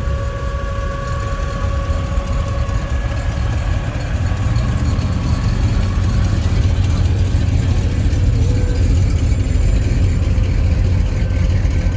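A classic car's engine running low and steady as it rolls slowly in, growing a little louder about halfway through as it comes closer.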